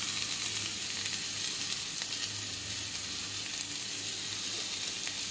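Cauliflower and potato pieces sizzling steadily in hot oil in a kadhai, with a perforated metal spatula stirring them through.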